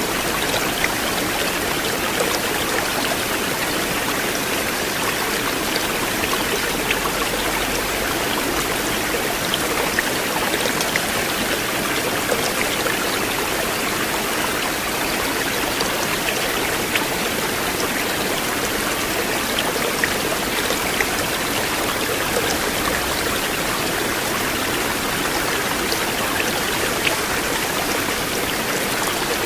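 River water flowing steadily: an even, continuous rush with small splashes scattered through it.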